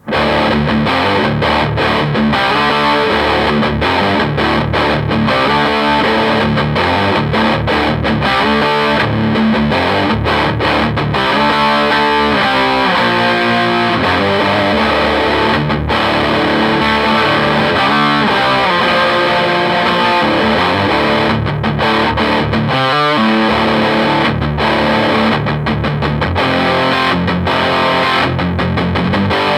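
Distorted electric guitar, a Gibson Les Paul Studio played through a Marshall JTM60 valve amplifier, starting at once and running on as chords and single-note lines, with one note shaken with vibrato about two-thirds of the way through.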